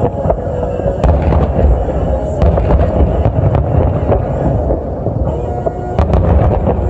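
Fireworks display: a dense, continuous barrage of booming shell bursts and sharp crackling pops.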